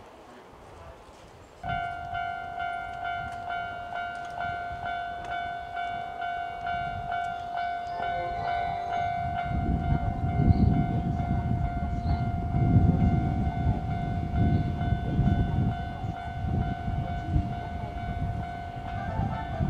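An electronic warning tone begins abruptly about two seconds in and rings steadily in a regular pulse. From about halfway, a passing electric train adds a low rumble and wheel clatter that grows louder.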